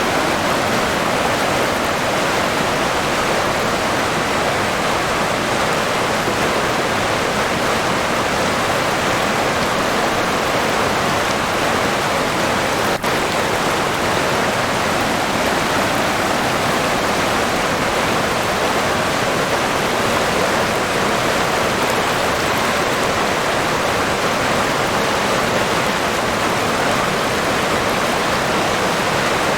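River water flowing, a steady even rush with a momentary dip near the middle.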